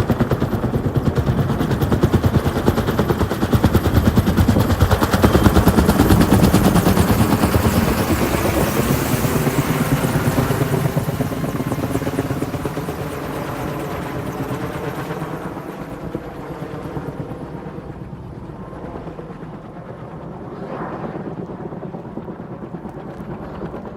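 Large helicopter's rotor blades beating in a rapid, even chop, loud at first, then fading steadily through the second half as the helicopter moves away.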